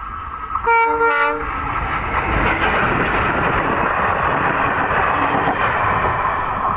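A trial train's horn sounds a short blast about a second in. It is followed by the steady rumble and wheel clatter of the train running past on the rails.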